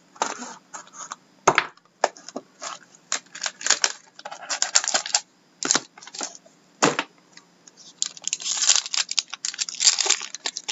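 Hockey card box and its packaging being opened by hand: a run of sharp clicks and taps, with stretches of crinkling and tearing about halfway through and again near the end.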